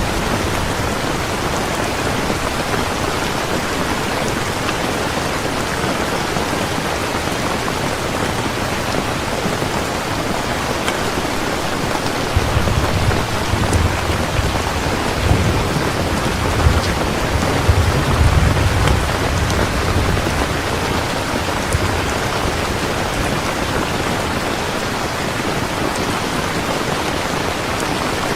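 Steady rain falling, with a low roll of thunder rumbling for several seconds near the middle.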